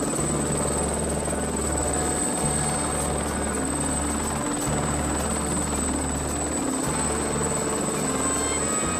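Helicopter in flight, a steady rotor and engine drone, with a dramatic music score underneath.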